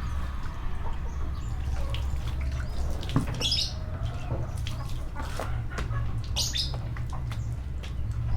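Scattered knocks, clicks and rubbing of a cat cage being washed, over a steady low hum, with a few short high chirps.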